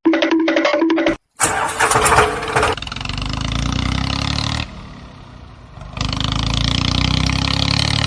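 Tractor engine starting with a short noisy burst, then running at a steady low idle. The idle drops quieter for about a second midway, then comes back. A few short pitched blips come just before the start.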